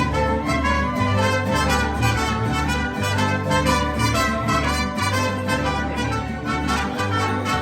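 Mariachi ensemble playing an instrumental passage of a son medley: trumpets lead over a rhythmic accompaniment and a bass line that moves in even steps.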